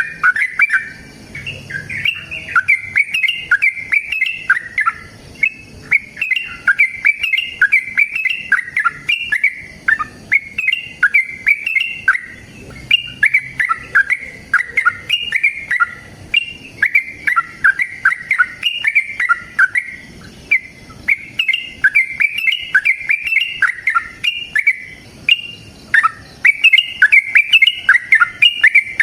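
Yellow-vented bulbul (trucukan) singing a long, rapid, bubbling chatter of quick notes, phrase after phrase with only brief breaks.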